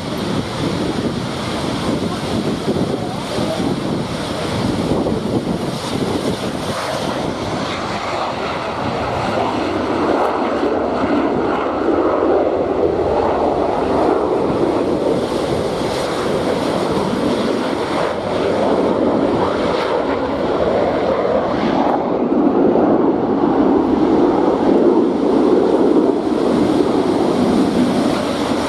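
Jet aircraft flying past, a steady roar that builds louder through the second half, with wind buffeting the microphone.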